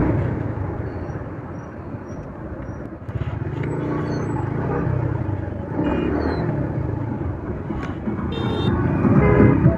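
Motorcycle riding on an open highway: steady engine rumble and road noise with wind on the microphone, among passing traffic. A vehicle horn sounds briefly near the end.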